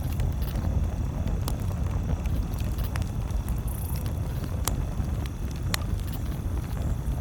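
Campfire crackling: a few sharp pops and snaps from the burning wood over a steady low rumble.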